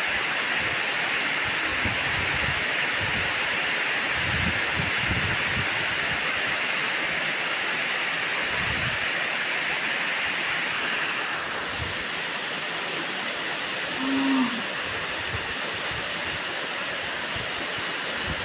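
Steady rain falling, easing slightly after about eleven seconds. A brief low-pitched call sounds about fourteen seconds in.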